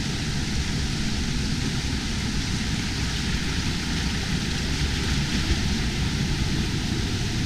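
Steady rushing noise of the Atysh waterfall, water pouring out of the grotto into its pool, an even unbroken roar.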